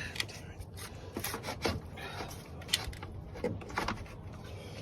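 Scattered clicks, knocks and rubbing of hands and tools working on plastic clips and parts in a car's engine bay.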